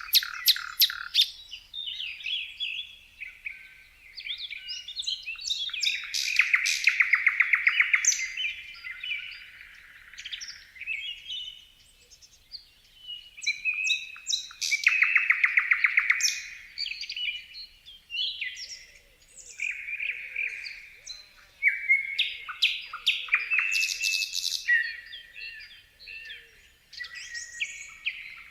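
Songbirds singing and chirping in a series of phrases, two of them long rapid trills of fast repeated notes about six and fifteen seconds in.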